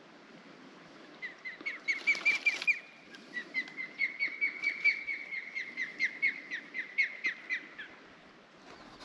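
A bird calling: a series of short, evenly repeated whistled notes, about four or five a second, in two runs, the second lasting over four seconds.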